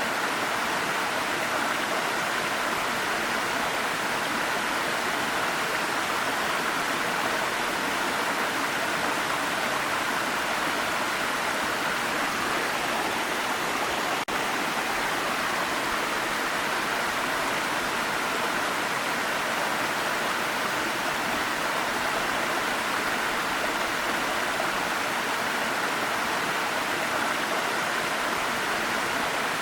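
Waterfall: a steady rush of falling water, with a brief dip in level about halfway through.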